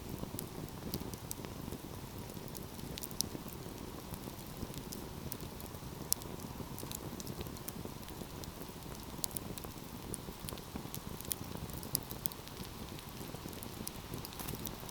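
Wood fire burning in a fireplace: a steady low rush of flames under frequent sharp crackles and snaps, with a few louder pops spread through.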